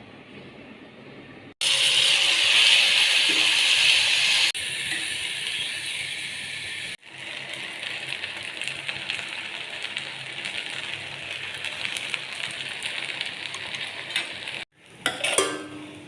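Food sizzling as it fries in a pan: a steady crackling hiss that jumps in level at several hard cuts, with a brief louder knock near the end.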